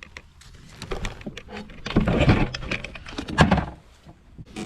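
Handling noise from a boat's front live-well hatch: scattered clicks and knocks with rustling in the middle, and a sharp knock near the end as the lid is shut.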